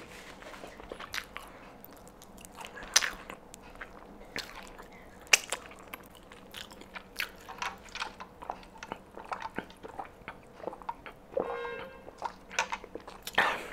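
Close-miked chewing of crispy fried chicken, with wet mouth clicks and sharp crunches of the breading. Near the end comes a short slurping sip through a drinking straw.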